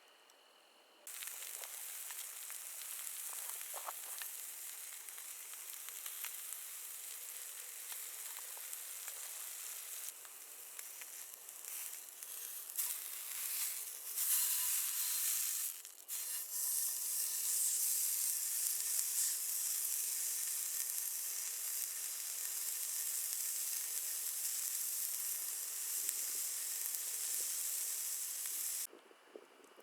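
Food frying in a pan, a steady sizzle that cuts in about a second in and stops abruptly near the end, with a briefly louder, uneven stretch around the middle.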